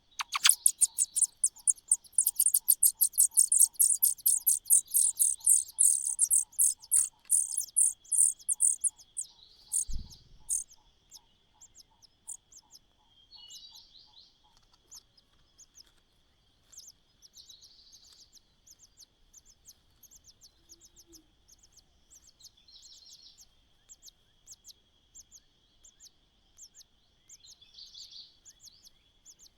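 Nestlings begging in a nest: a rapid string of very high, thin chirps, loud for about the first nine seconds, then quieter scattered chirps. Under them runs a steady high insect whine.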